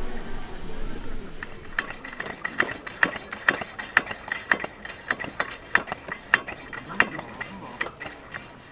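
Irregular light metallic clinks, several a second, from metal utensils and cookware being handled. The clinks start about a second and a half in and thin out near the end, with faint voices at the start.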